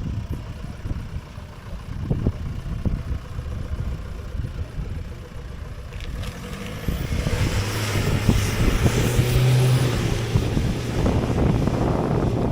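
Car engine running under load as a vehicle is worked out of deep mud: a low rumble, then after about seven seconds a louder, steady engine note that rises briefly, with a rushing hiss over it.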